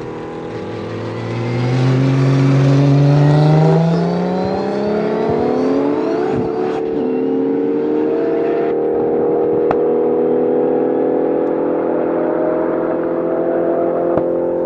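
Modified Audi S4 B5 with an RS4 twin-turbo V6 accelerating hard at full throttle. The engine note climbs steeply, breaks at a gear change about four seconds in, then keeps climbing slowly as the car pulls away.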